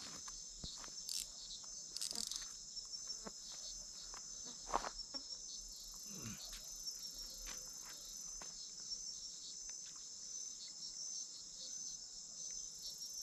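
Steady high-pitched chorus of night insects, with a few faint clicks and knocks.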